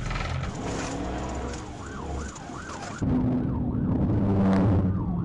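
Police car siren yelping, sweeping rapidly up and down about three times a second, over vehicle and road noise. A loud, short burst of noise about four and a half seconds in.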